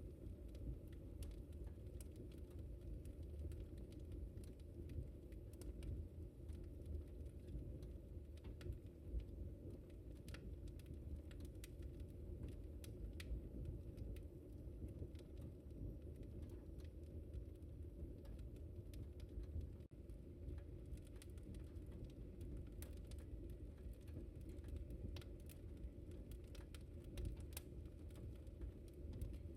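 Wood fire crackling in a fireplace: frequent irregular sharp snaps and pops over a steady low rumble of the flames.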